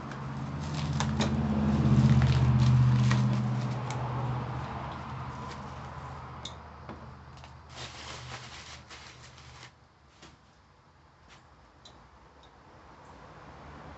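Rustling, crinkling and light clicks of parts being handled, over a low hum that swells in the first few seconds and then fades away.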